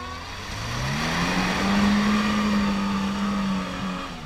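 Lada Niva's engine revving up over about a second, held steady at high revs for about two seconds, then dropping off near the end.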